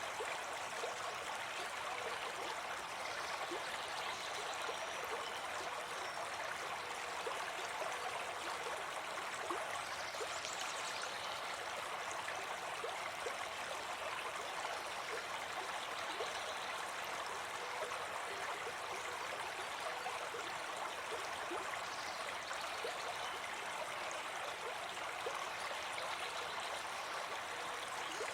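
A brook babbling steadily.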